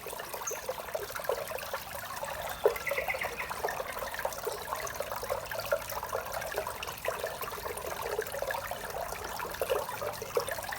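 Small waterfall pouring into a koi pond: steady splashing and trickling water, with many small splashes throughout.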